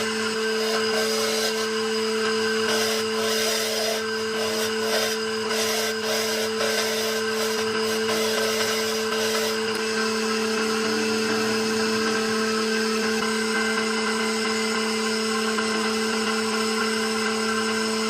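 An electric power tool's motor running at a steady pitch while working wood. For about the first ten seconds there is a rough, uneven cutting or grinding noise on top, which then settles into a smoother, even run.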